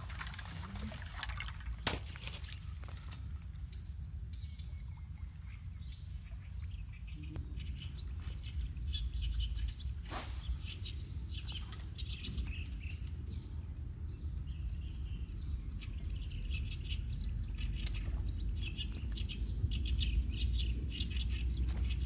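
Birds chirping in many short calls, growing busier about eight seconds in, over a steady low rumble, with a couple of brief sharp noises.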